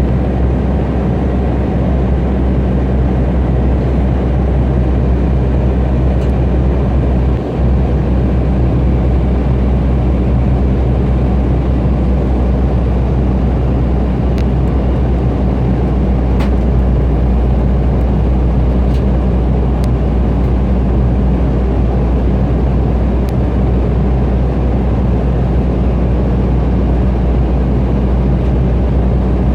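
Steady drone inside the cabin of an Embraer E175 airliner in flight: the hum of its two GE CF34 turbofan engines under the rush of airflow.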